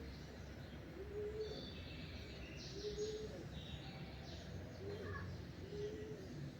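Dawn birdsong: a dove repeats short, low coos every second or two, while smaller birds chirp and twitter higher up, mostly in the first half, over a soft steady background hiss.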